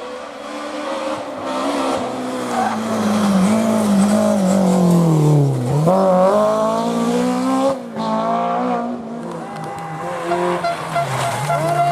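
Historic rally car engine at full attack: revs drop steadily through about six seconds as it slows for a corner, then climb again, with a brief break near eight seconds as a gear changes, and more rises and falls after.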